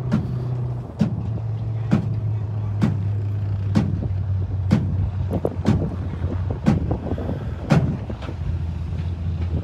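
Sharp metal-on-metal strikes, about one a second with a few quicker ones in the middle, typical of hammer blows during repair work on a demolition-derby car. A steady low engine hum runs underneath and drops slightly in pitch about a second in.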